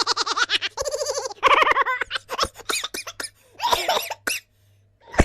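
Comic vocal sound effects: quick, high-pitched, giggle-like bursts in rapid succession, stopping briefly near the end, where a sharp click follows.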